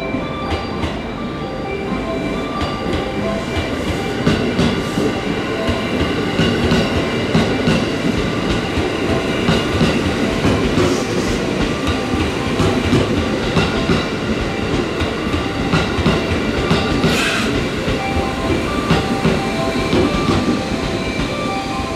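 JR West 213 series electric train rolling along a station platform as it pulls in: a loud, steady rumble of wheels on rail with repeated clicks from the rail joints.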